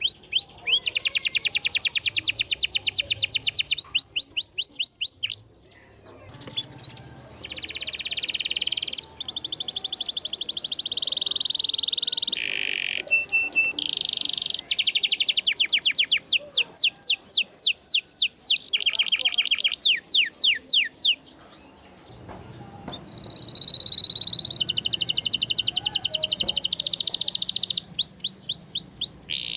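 Domestic canary singing: long fast trills of quickly repeated high notes and steady rolls, broken twice by short pauses.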